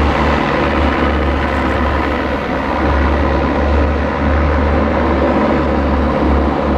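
Antonov An-12A's four Ivchenko AI-20 turboprop engines running loud and steady, with a deep low drone under the noise.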